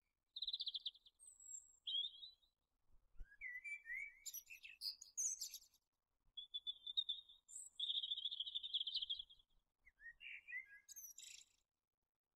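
Small birds singing: a run of high, fast trills and short chirps with brief pauses between phrases. The longest trill comes a little past the middle.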